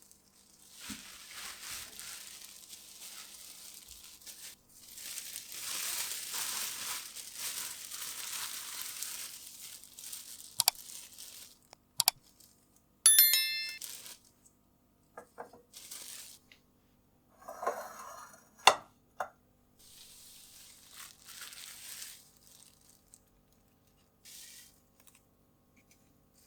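Plastic shopping bags rustling and crinkling as groceries are unpacked, with sharp knocks and clinks of glass and containers being set down, one of them ringing briefly.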